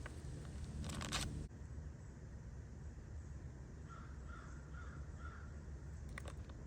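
Crow cawing: a loud, harsh sound about a second in that cuts off abruptly, then a run of four fainter caws a few seconds later.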